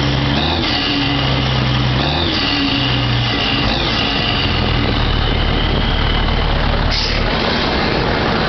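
Truck engines running, with a pitched tone that holds for about a second and then bends away, about four times, and a change in the sound about seven seconds in.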